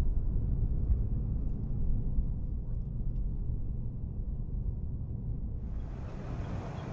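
Steady low rumble of a vehicle driving on the road, heard from inside the cabin. Near the end a steady hiss suddenly joins in.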